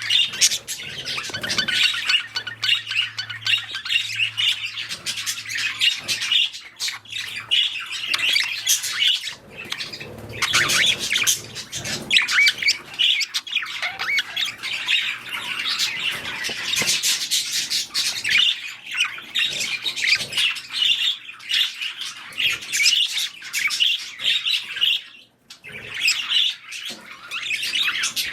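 Budgerigars calling in a constant stream of high chirps and chatter, with a brief lull about 25 seconds in.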